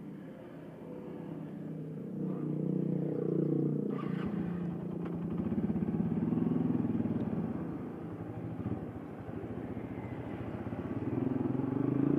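Honda Tiger 2000 motorcycle's single-cylinder four-stroke engine running under way, its revs rising and falling through the gears. A low rumble joins about four seconds in.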